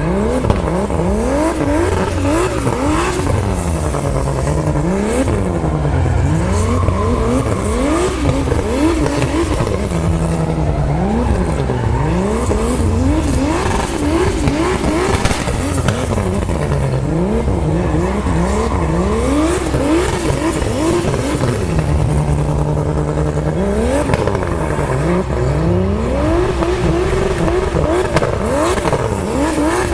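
Turbocharged BMW E36 328i's M52 inline-six revving up and down over and over during a drift, its pitch briefly held steady about three-quarters of the way through.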